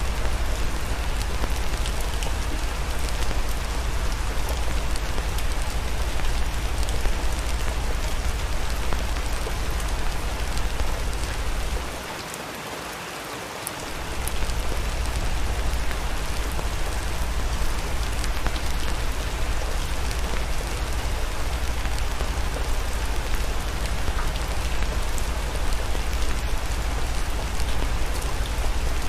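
Steady rain ambience: an even hiss of falling rain with a deep rumble underneath and scattered faint ticks. The deep rumble drops away for about two seconds near the middle, then returns.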